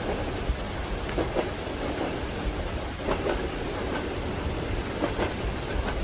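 Steady rain with the low rumble of a moving train. The wheels clack over rail joints in pairs of knocks about every two seconds.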